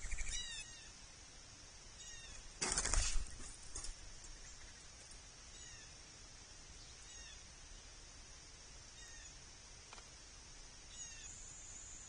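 Birds at a backyard feeder calling in short down-slurred notes, repeated every second or two over a steady high hiss. About three seconds in comes a loud, brief rustling burst with a low thump.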